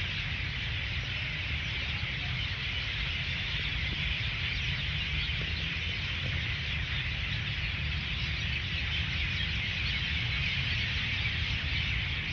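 A dense, steady chorus of many birds chirping at once, the calls blending together with no single call standing out, over a low steady rumble.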